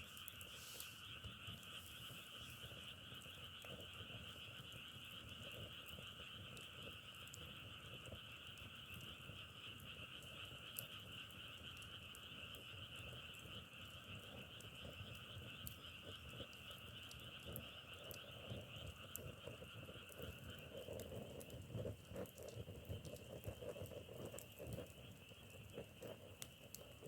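A dense chorus of frogs calling steadily at night-chorus density. About twenty seconds in, one of the two pitches of calling drops out and lower, pulsing croaks take its place.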